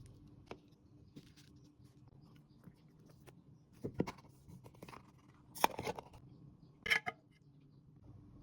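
Food-preparation handling sounds: scattered taps and clicks with crinkly rustles, louder bursts about four, five and a half and seven seconds in.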